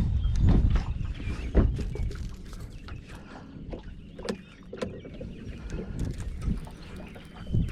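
Scattered knocks and clatter in a small fishing boat, over a steady low rumble; the loudest knock comes about one and a half seconds in.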